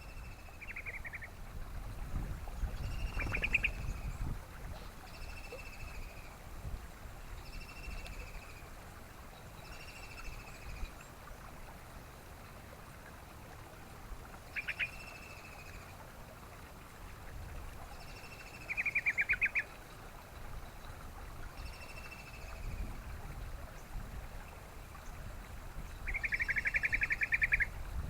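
Yellow-vented bulbul (trucukan) calling over and over: short call phrases about every two seconds, with two longer rattling trills, the loudest near the end. A low rumbling background noise runs underneath.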